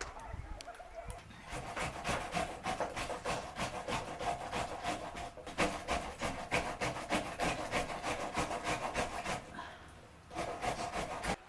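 Rapid rhythmic scraping strokes, about five a second, in two long runs with a brief break between them. A short run near the end cuts off suddenly.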